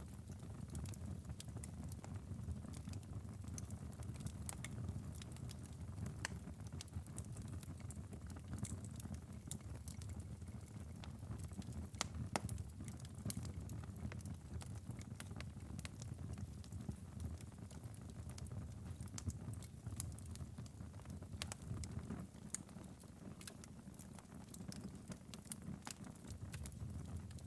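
Wood fire crackling in a fireplace: a steady low rumble of burning with frequent small, irregular crackles and a few sharper pops.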